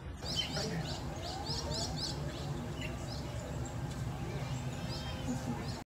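Birds chirping: short, high chirps in quick series over a steady background hum, with a few sliding calls mixed in.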